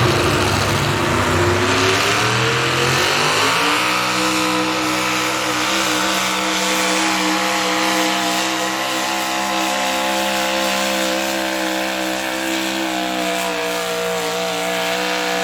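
Modified small-block V8 pulling truck under full throttle: the engine revs climb over the first few seconds, then hold steady at high rpm as it pulls.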